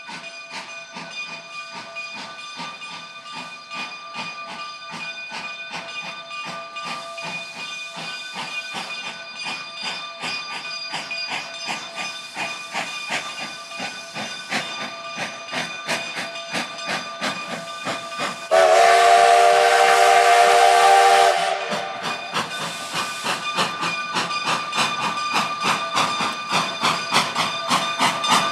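Narrow-gauge steam locomotive working along with a steady rhythmic beat and hiss of steam. About two-thirds of the way through, its steam whistle sounds one long blast of about three seconds, and a second blast begins at the very end.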